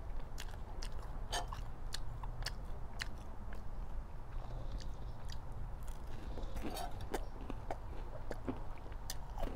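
Close-up eating sounds: biting and chewing crusty baguette dipped in curry sauce, with scattered crunchy clicks from the bread crust.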